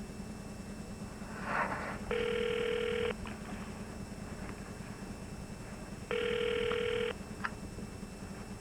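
Telephone ringing twice, each ring a steady electronic tone about a second long, four seconds apart, with a few faint clicks between.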